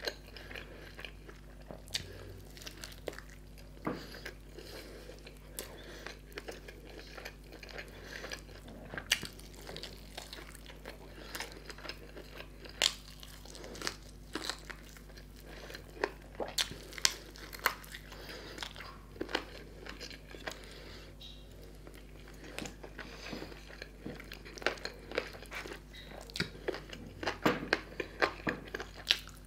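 Close-up mouth sounds of biting and chewing a roasted tandoori chicken drumstick: irregular wet clicks and crunches, coming thicker near the end, over a faint steady hum.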